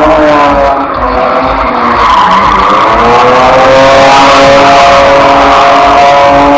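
A car being drifted: the engine is held high in the revs, dipping briefly and then climbing back and holding, while the tyres skid and squeal.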